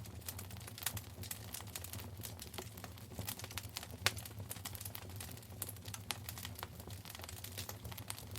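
Wood fire crackling in a fireplace: many small irregular pops and snaps, one louder pop about four seconds in, over a steady low rumble of the burning fire.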